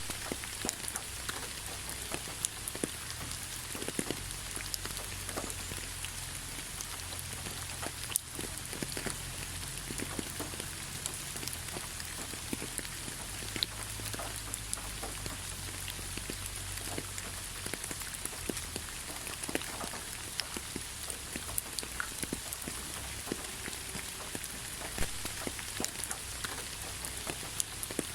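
Steady rainfall with many separate drops ticking sharply on a surface over a continuous hiss, and a faint low rumble underneath.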